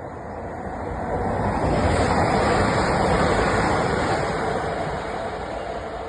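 A vehicle passing by: a rushing noise without a clear pitch swells to a peak about two to three seconds in, then fades away.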